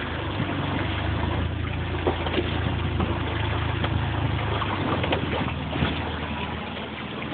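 Boat engine running steadily at low speed, a low hum that fades out about two-thirds of the way through, under a steady wash of water and wind noise.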